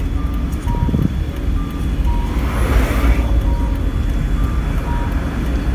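Small car engine running with a steady low hum. Over it, a quiet electronic beep alternates between two notes, one note about every 0.7 s. A rushing noise swells briefly about halfway through.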